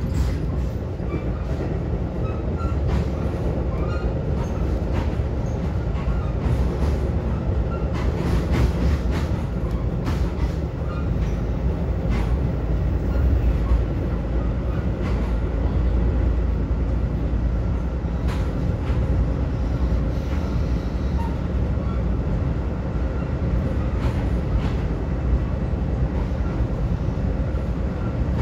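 Steady low rumble of a Metra commuter train coach in motion, heard from inside the car, with occasional clacks from the wheels at uneven intervals.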